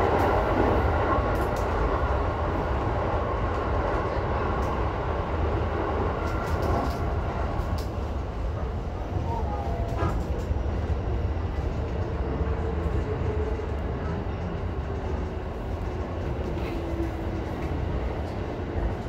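E233-series electric commuter train running between stations, heard from inside the car: a steady low rumble of wheels on rail, with a faint whine that slides slowly down in pitch and a few light clicks.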